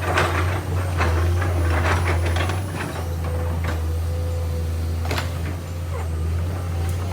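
Komatsu PC210 excavator's diesel engine running steadily with a low drone, with a clatter of metallic knocks and scrapes over the first three seconds and a single sharp knock about five seconds in.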